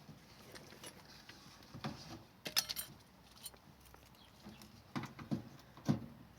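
Scattered clicks, clinks and light knocks of hand work with a screwdriver on a washing machine's door fittings, with a small cluster of clinks about two and a half seconds in and a few knocks near the end.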